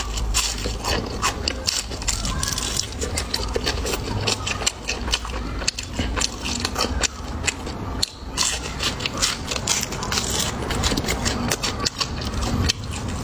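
Close-miked biting and chewing of crispy fried small yellow croaker, a dense run of sharp crunches and crackles.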